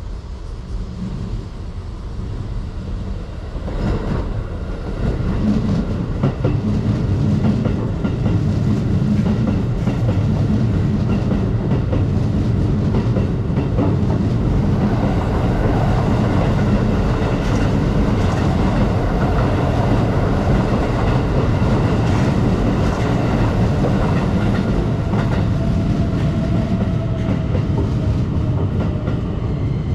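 Electric commuter train running on the rails close by, wheels clicking over rail joints; the sound builds over the first few seconds and then stays loud and steady, with a faint thin whine near the end.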